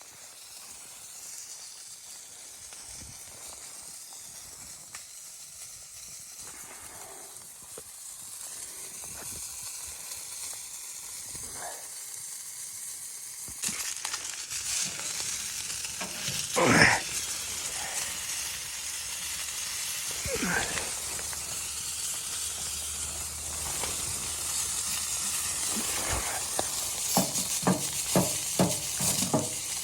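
Food sizzling in a frying pan, a steady hiss that gets louder suddenly about halfway through, with a utensil stirring and clicking against the pan in quick strokes near the end.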